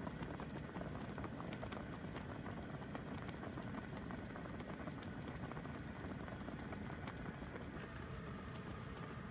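A pot of hot-pot broth simmering, with a steady dense bubbling and popping.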